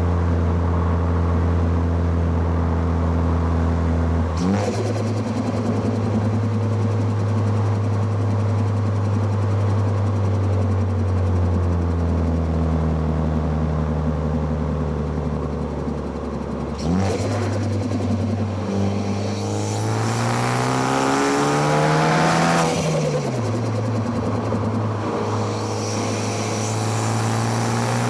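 2013 Ford Focus ST's turbocharged four-cylinder engine, picked up close to the intake and exhaust, under hard driving with gear changes. Revs jump suddenly about four seconds in and again near seventeen seconds, as on downshifts. They drop near twelve seconds. From about eighteen seconds they climb hard, fall back at about twenty-three seconds with an upshift, then climb again near the end.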